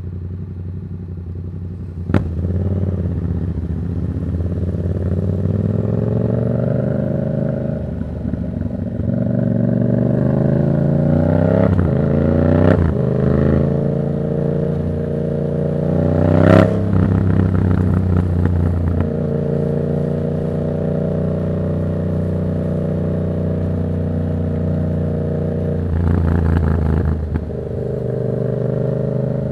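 Yamaha MT-07's parallel-twin engine through an aftermarket Black Widow exhaust with no dB killer, riding: the revs climb through a couple of quick gear changes, then a sharp crack comes about midway. After it the pitch falls and the engine holds a steady note at cruise.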